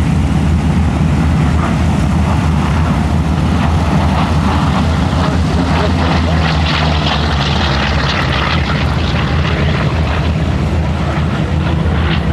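F4U Corsair's Pratt & Whitney R-2800 18-cylinder radial engine and propeller running loudly and steadily.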